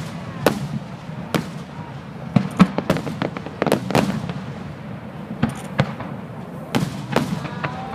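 Fireworks display: aerial shells bursting in a rapid, irregular series of sharp bangs, some overlapping, over a steady low rumble.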